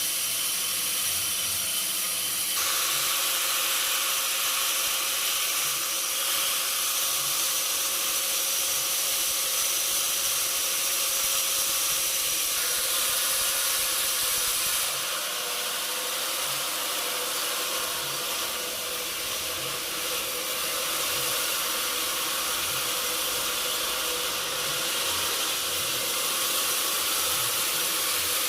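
Sawmill saw and machinery running steadily: a loud high hiss with a faint steady whine, its tone shifting about two and a half seconds in and again about halfway through.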